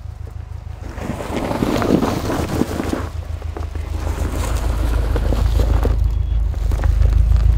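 Turbocharged flat-four of a Subaru Forester XT running at low speed as the car creeps in on a loose dirt and gravel track, growing louder as it comes closer, with wind rushing across the microphone.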